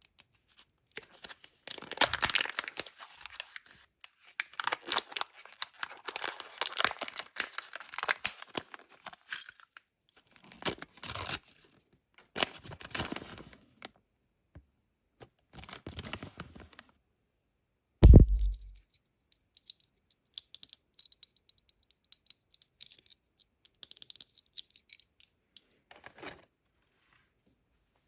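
Kinder Joy egg packaging being torn open and crinkled by hand, in long crackling stretches. A single loud thump comes a little past the middle, followed by faint clicks and rustles of plastic.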